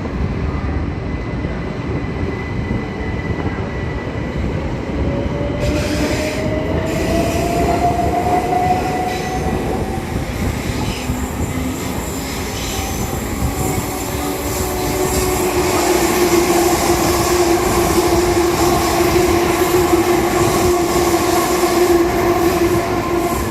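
Train moving along the platform: a loud, steady rumble of wheels on rails with high squealing tones over it. One tone rises slowly a few seconds in, and a strong steady squeal sets in about halfway through as the sound grows louder.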